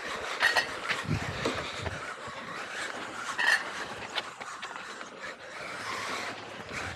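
Tamiya XV-01 electric RC rally car running flat out on pavement: a steady rush of tyre and drivetrain noise, with two sharp clacks, about half a second in and about three and a half seconds in.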